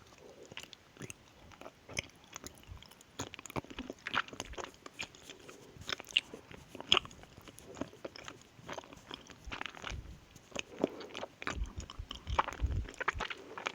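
Close-miked chewing and mouth sounds of a person eating, made up of many short, irregular clicks.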